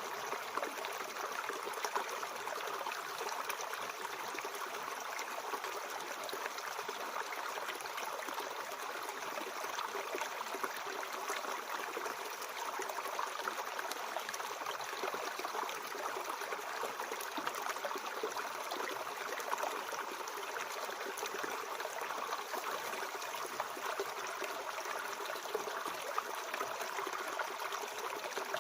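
Mountain stream flowing steadily, an even rush of running water.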